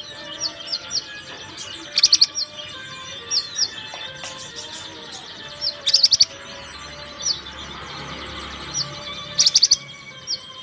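Scarlet minivet (sepah raja) calling: short, high, downslurred whistled notes, some single and some in quick runs of four or five, repeated every few seconds.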